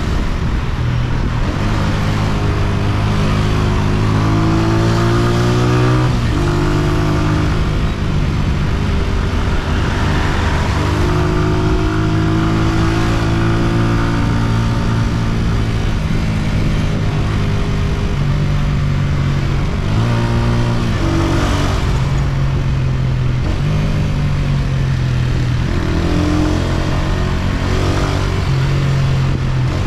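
Honda CG125's air-cooled single-cylinder four-stroke engine running under way, its pitch holding and then shifting abruptly a few times as the rider changes throttle and gears, over a steady rush of wind and road noise.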